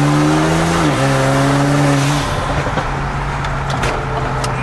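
Car engine accelerating hard, heard from inside the car: its pitch climbs, dips briefly at a gear change about a second in, climbs again, then falls away as the throttle is lifted about two seconds in.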